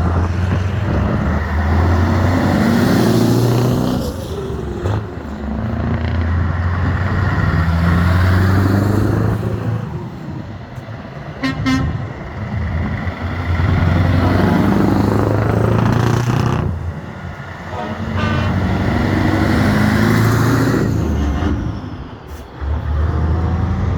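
Old trucks driving past one after another in a convoy, the engine sound swelling and fading about five times as each one goes by. A short horn toot sounds about halfway through.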